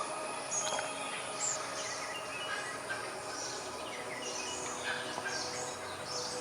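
Several birds chirping and calling in short, overlapping notes, over steady background noise.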